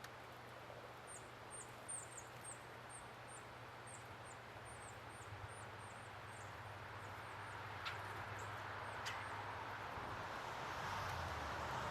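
Small birds giving a quick run of thin, very high call notes during the first half. In the second half a distant engine noise swells up, with two sharp clicks.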